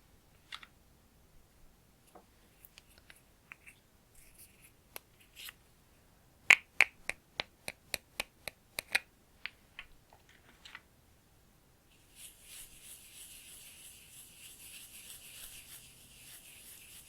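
Sharp clicks and taps from a bareMinerals loose-powder bronzer jar being handled, about a dozen of them in quick succession, three or four a second, in the middle. From about twelve seconds in comes a steady soft swishing of a makeup brush swirled in the loose powder to load it.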